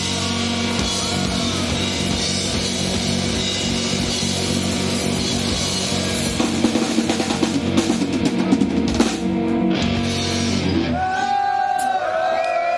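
Live rock band ending a song: guitars hold a ringing chord while the drums pound out a closing fill. About eleven seconds in the music stops and voices take over.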